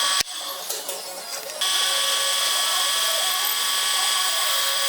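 Small electric drill running steadily at speed, boring a tap-size hole (3.6 mm for an M4 thread) in a miniature steam engine part. A sharp click about a quarter second in, then the sound drops away for about a second and a half before the drill runs again at full level.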